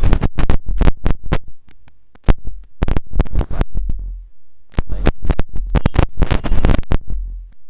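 Wind buffeting the microphone while riding: irregular loud crackles and low thumps, with brief lulls about two seconds in and again near the end.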